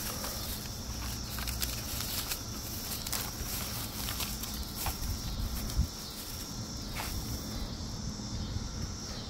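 Crickets chirping steadily in the background, with scattered light clicks and a dull thump about six seconds in.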